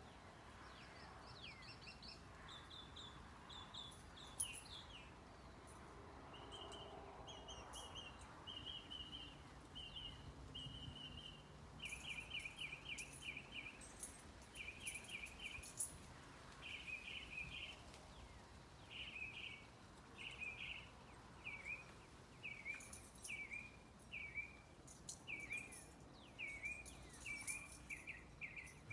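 Small songbirds singing faintly: strings of quick repeated chirps. Over the second half they turn into short bursts of rapid trills and down-slurred notes, about one burst a second.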